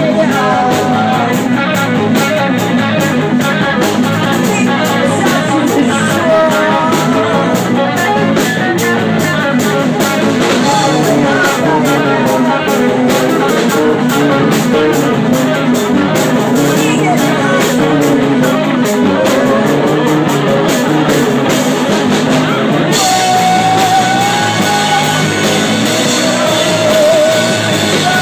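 Rock band playing live, with electric guitar and drums and a voice singing over them.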